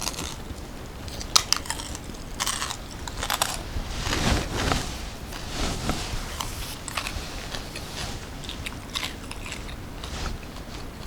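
Close-miked eating: sharp crunchy bites followed by chewing, with a run of small crisp crackles.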